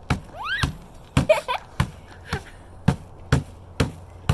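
Mallet pounding thin chocolate chip cookies to crumbs: about nine sharp knocks, roughly two a second.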